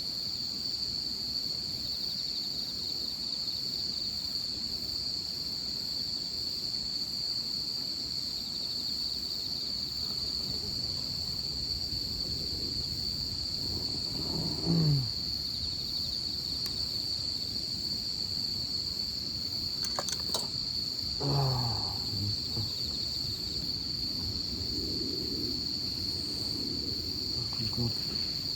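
A person snoring, dozing by a campfire: three short low snores falling in pitch, about six or seven seconds apart, the middle one about halfway through. A steady high-pitched insect chorus runs underneath.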